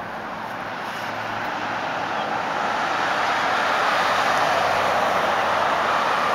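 A vehicle passing on the road, its tyre and engine noise growing steadily louder over about four seconds as it approaches.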